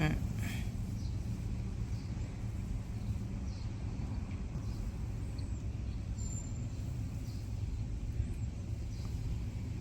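A car engine runs with a steady low rumble, with a few faint high chirps or ticks above it.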